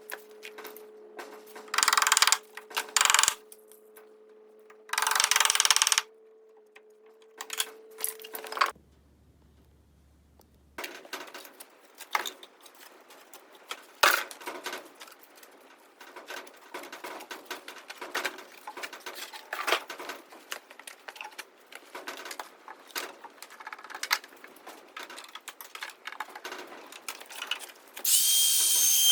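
Power drill run in short bursts of about a second each, as when driving screws into wood, followed by a long run of light clicking and knocking. A loud high whistling tone starts near the end.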